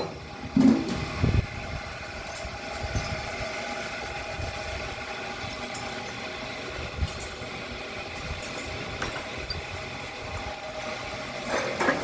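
An engine running steadily at idle, with a few knocks and thuds in the first second and a half and occasional light clicks.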